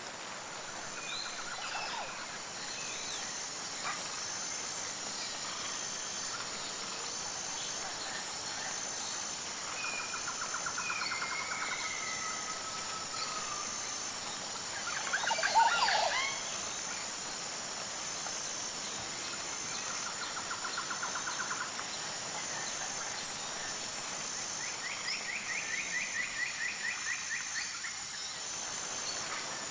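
Rainforest ambience: a steady high-pitched insect drone with a faint even pulse, over which birds call now and then with short trills and whistled notes. The loudest moment is a short burst of several calls a little past halfway.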